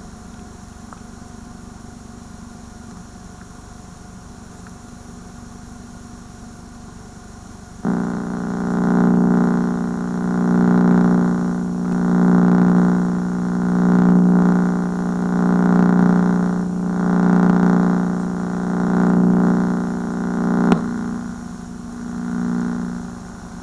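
Audio of a VHS tape playing past the end of the recording: a faint steady hiss, then a loud buzz that starts suddenly and swells and fades about every one and a half to two seconds. A sharp click comes near the end, after which the buzz carries on, quieter.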